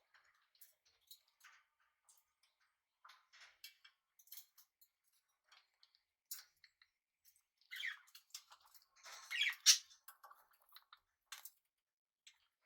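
Small pet parrots chirping softly, among scattered small clicks and scratches, with a louder run of short chirps about eight to ten seconds in.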